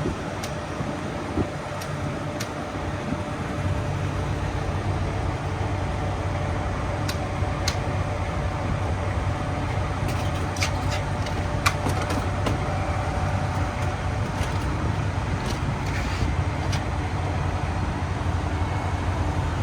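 Semi truck's diesel engine idling steadily, with sharp clicks and taps scattered through the middle.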